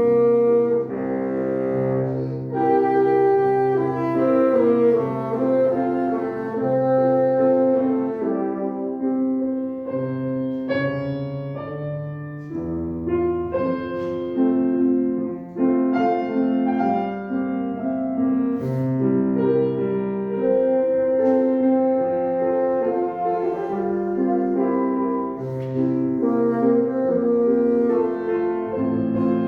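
Bassoon playing a slow melodic line with piano accompaniment.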